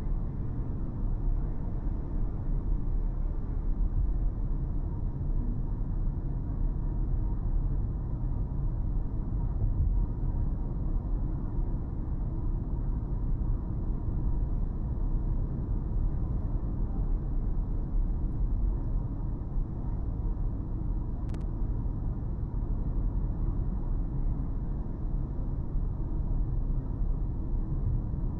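A car driving along, with a steady low rumble of road and engine noise that stays even throughout, and one faint click about two-thirds of the way through.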